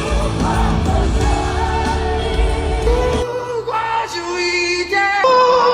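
A song: a voice singing over full accompaniment with a strong bass end; about three seconds in the low accompaniment drops out, leaving the singer holding long notes that step in pitch.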